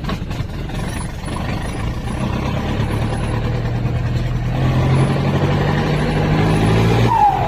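Motorcycle engine running through a short open exhaust pipe with no muffler, pulling under way: the engine note climbs and grows louder, holds steady for a few seconds, then drops off near the end with a falling whine. Very loud.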